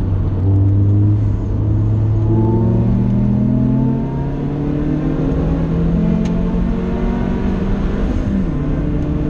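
Vauxhall VX220 Turbo's turbocharged 2.0-litre four-cylinder engine under load, heard from inside the cabin. It holds a steady note, then climbs in pitch for several seconds before dropping sharply near the end.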